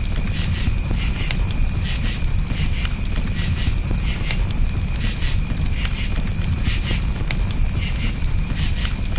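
Crickets chirping in steady, rapidly pulsed trills over a campfire crackling with scattered sharp pops and a low steady rumble of burning.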